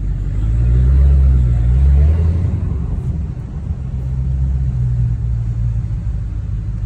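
Car engine running with a deep, low rumble that swells about half a second in, eases after about two seconds, then holds steady.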